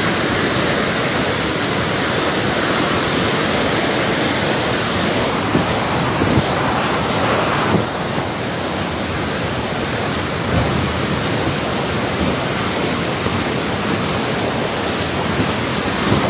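Loud, steady rush of fast-flowing floodwater, with a slight drop in level about eight seconds in.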